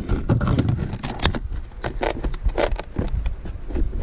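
Irregular handling sounds: Velcro battery straps on an RC model airplane being pulled open, with scrapes and clicks as the battery and straps are handled. A low rumble of wind on the microphone runs underneath.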